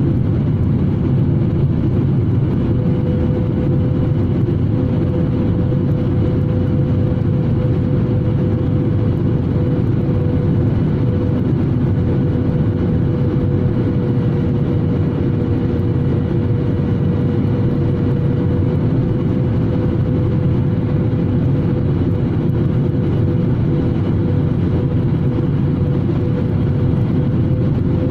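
Airliner cabin noise in flight: a steady low rumble of engines and rushing air, with a steady hum running through it.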